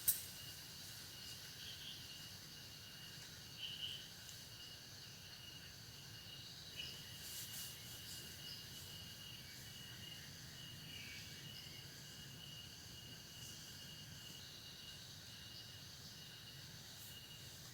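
Faint, steady chorus of insects, several high trilling tones held constant, with a few brief chirps and soft clicks over it.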